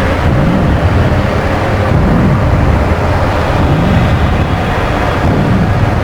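Dark ambient drone-noise music: a dense, steady rumbling noise bed with a low tone that swells up and falls back roughly every two seconds.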